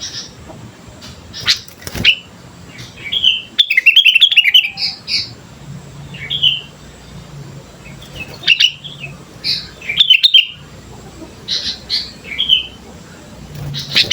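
Sooty-headed bulbul (kutilang) singing: short, lively chirping phrases, loud and repeated every second or two.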